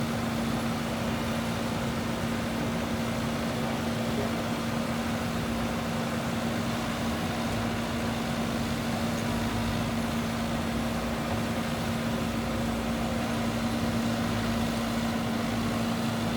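Diesel engine of heavy earthmoving machinery running steadily, with an unbroken droning hum.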